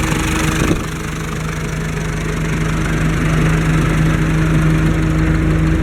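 Fendt Farmer 106 S tractor's four-cylinder diesel engine idling steadily, with an even hum.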